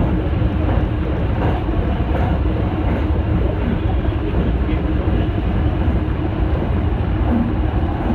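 Tsukuba Express electric commuter train running at speed on elevated track, heard from inside the front car: a steady rumble of wheels on rail.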